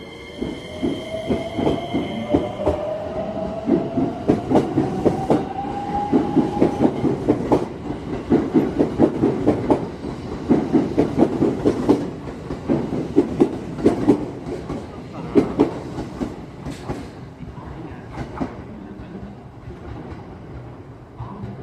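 JR West 321 series electric train pulling out: the whine of its inverter-driven traction motors rises in pitch over the first several seconds as it accelerates. Wheels clack over rail joints in a quick run of beats, loudest in the middle, then fade as the cars move off.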